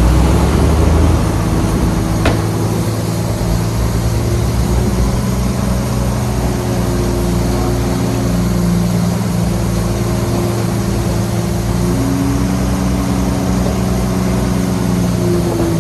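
Shantui bulldozer's diesel engine running steadily under work, its deep rumble easing about a second in, with a single sharp click a little after two seconds.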